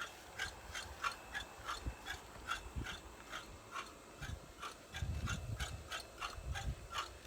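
Dog panting in a steady, quick rhythm of about three breaths a second, with a low rumble of wind or handling on the microphone in the second half.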